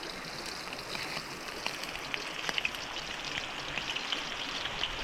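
Pork tenderloin strips deep-frying in hot oil: a steady sizzle with many small scattered pops and crackles. The oil keeps spitting, which the cooks put down to water in the marinated meat.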